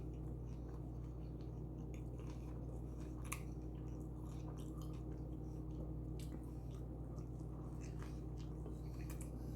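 Close-miked chewing of a tuna fish sub: scattered small wet mouth clicks over a steady low hum.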